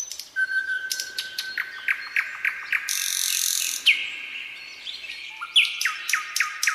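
Songbirds singing: rapid series of sharp, downward-sweeping chirps repeated several times a second, with a brief hissing burst about three seconds in.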